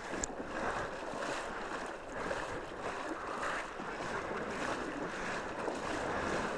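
River water splashing and rushing around wading legs and a motorcycle being pushed through the current with its engine off, in uneven surges.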